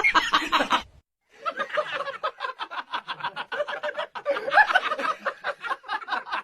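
A person laughing hard in quick, repeated breathy bursts, starting after a brief break about a second in and running on for several seconds.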